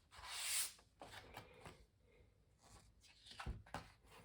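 A brief rustle of paper, such as a picture book being handled, followed by a few faint ticks and a soft knock about three and a half seconds in.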